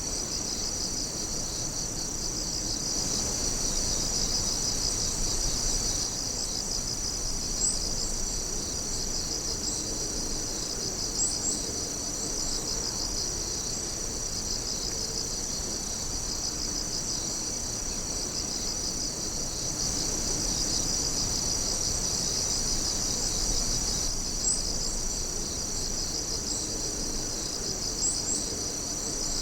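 A chorus of night insects chirring steadily in a high pitch, with a fast pulsing trill. A few short, sharper chirps stand out above it, about four times.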